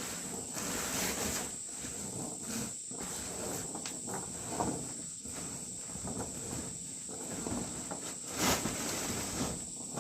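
A steady high-pitched insect drone, like crickets, with irregular rustling and handling noises over it. A brief louder scrape comes near the end.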